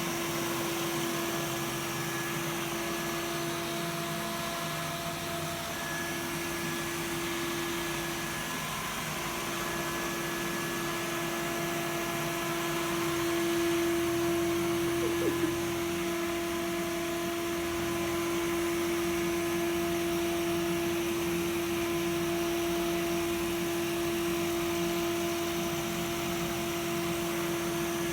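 Samsung POWERbot robot vacuum running: a steady motor whir with a strong steady tone over a hiss of airflow. There are two quick clicks about halfway through.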